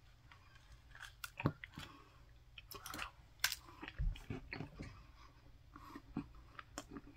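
A person chewing a bite of glazed caramel apple hand pie close to the microphone, with irregular crunches and mouth clicks starting about a second in. The crust is hard, which he suspects means the pie is stale.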